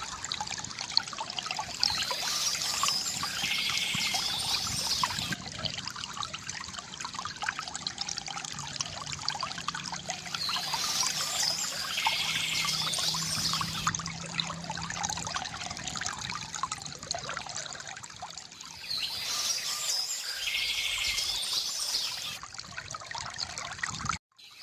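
Water trickling and pouring steadily from a bamboo fountain, with birds chirping in three similar bursts about eight seconds apart. The sound cuts out for a moment just before the end.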